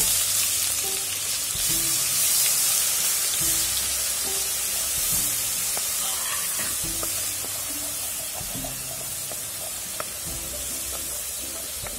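Hot oil sizzling steadily as a ground ginger, garlic and green-chilli paste fries in a pot, stirred with a wooden spoon; the sizzle eases somewhat in the second half. Background music plays underneath.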